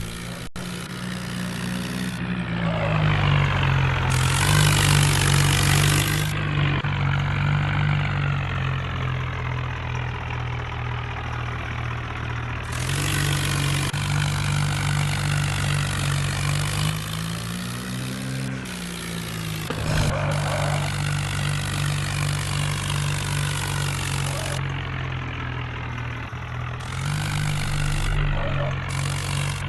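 Massey Ferguson 9500 tractor's diesel engine running, rising in pitch and level for a few seconds near the start and with a brief rev about two-thirds of the way through.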